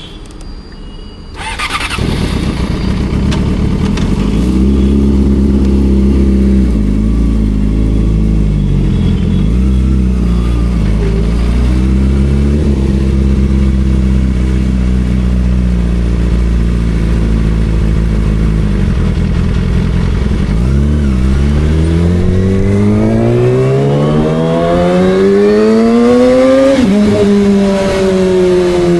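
Yamaha R6's 600 cc inline-four engine starting about a second in and idling steadily with a few brief blips, then accelerating with a long rise in pitch, a shift near the end dropping the pitch before it climbs again.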